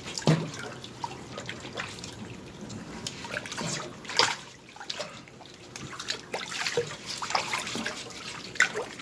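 Water trickling, dripping and lightly splashing as a small kitten is washed by hand, with irregular small splashes.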